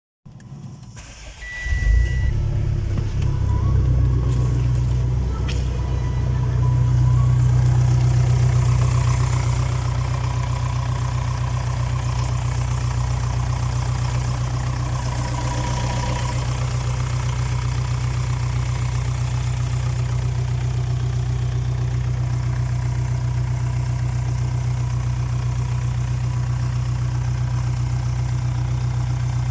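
Renault Espace IV's 2.2 dCi G9T four-cylinder turbodiesel catching and starting about two seconds in. It runs louder for a few seconds, then settles to a steady idle.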